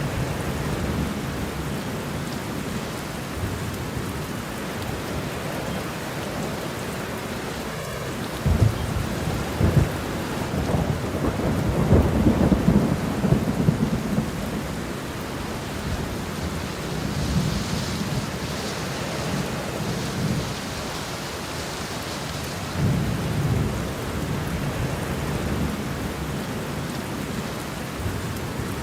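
Steady rain falling, with rolls of thunder rumbling underneath; the loudest roll builds about 8 seconds in and runs for several seconds, and another rumbles near the end.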